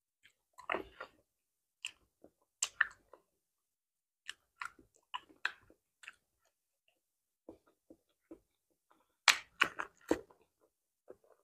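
Close-miked mouth sounds of a person biting and chewing ripe banana, in short irregular smacks, with the soft tearing of banana peel; the loudest cluster comes near the end.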